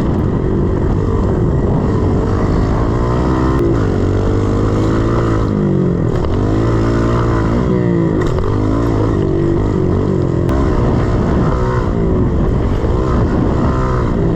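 110cc single-cylinder four-stroke pit bike engine being ridden hard, its pitch rising and falling every second or two as the throttle is opened and closed.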